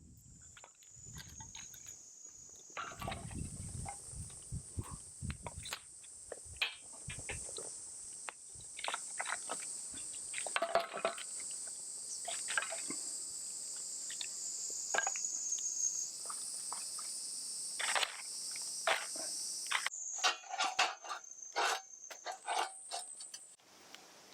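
Insects chirring in a steady, high drone, with scattered clicks and knocks of things being handled throughout.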